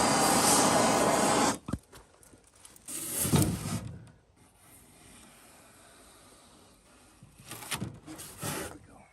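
Handheld gas torch flame hissing steadily, shut off suddenly about a second and a half in; a few quieter handling sounds follow.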